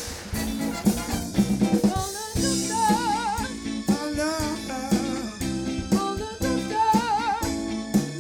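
Live soul band playing: a drum kit drives the groove with snare and rim shots under bass and chords. A wavering melody line comes in about three seconds in.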